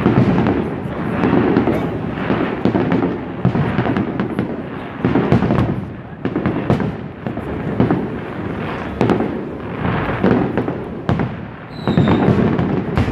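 Fireworks display: shells bursting one after another about once a second, with sharp crackles between the heavier booms.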